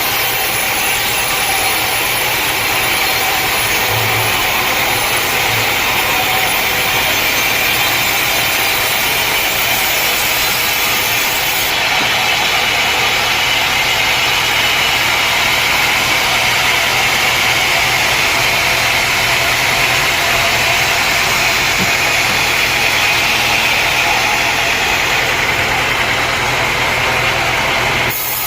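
Sawmill engine running steadily under load, a loud continuous drone with a hum underneath.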